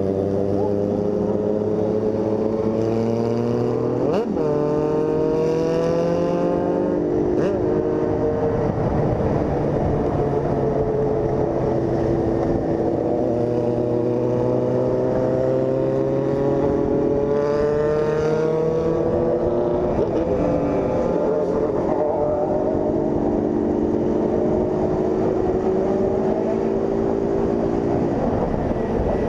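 Honda CG 160 Fan's single-cylinder engine under way, pulling through the gears: the pitch climbs steadily in each gear and drops at each shift. There is a quick rev about four seconds in and another near the middle.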